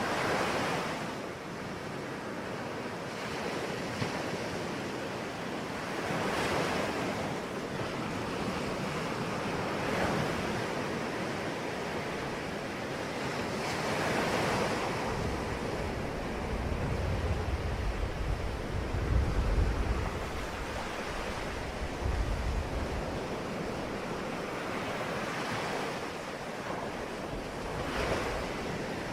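Sea waves washing onto a shore, swelling and falling back every few seconds in a steady hiss. A deeper low rumble builds through the middle stretch.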